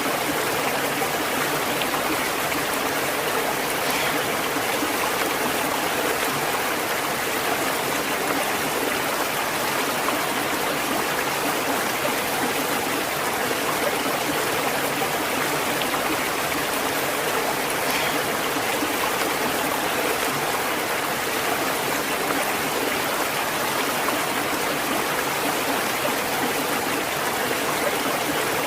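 Flowing water of a stream, a steady, even rushing that does not change.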